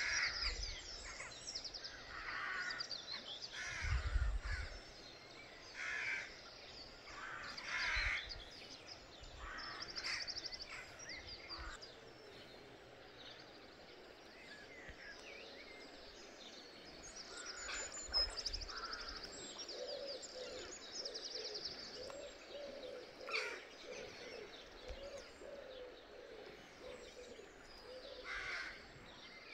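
Birds calling by the river: a series of harsh, caw-like calls scattered through, with bursts of higher rapid trilling song and a run of lower calls in the second half. A low thump about four seconds in.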